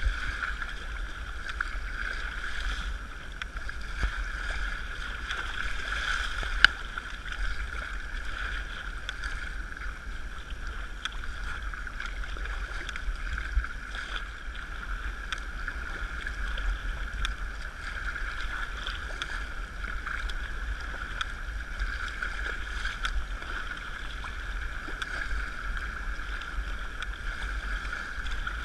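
Steady water wash and splashing around a sea kayak under way, with a low wind rumble on the microphone and a sharp knock about seven seconds in.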